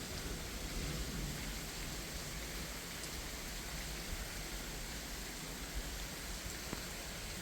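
Steady rain falling, with a low rumble of distant thunder about a second in.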